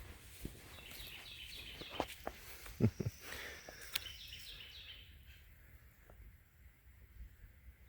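A bird calling in a quick run of repeated chirping notes, with footsteps and a few sharp knocks of walking along the trail underneath.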